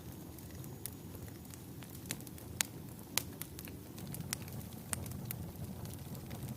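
Wood fire burning in a fireplace: a steady low rumble of flames with frequent sharp crackles and pops, two of them louder about two and a half and three seconds in.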